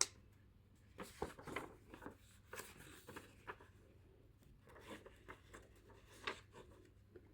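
Faint paper rustling with soft taps and scrapes: the pages of a printed user manual being leafed through and handled.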